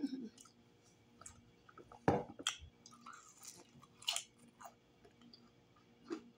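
Close-miked biting and chewing of breaded fried chicken hearts, with a few sharp crunches spread through the chewing.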